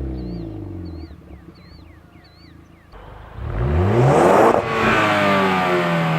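2018 Ford Focus ST's turbocharged 2.0-litre four-cylinder, heard through its stock exhaust, free-revving while parked. The revs fall away and settle, then about three seconds in the engine is revved sharply up to high rpm, cuts off abruptly at the peak, and the revs drop back down.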